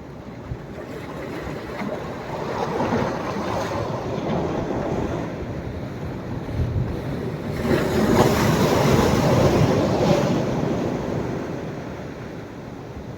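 Sea waves breaking on a sandy beach at rising tide. A smaller wave swells about three seconds in, then a bigger one breaks and washes up loudest around eight to ten seconds in, then fades as it draws back.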